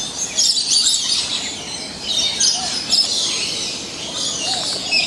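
A dense chorus of many birds chirping and calling at once, with a steady mass of short high-pitched chirps and whistles.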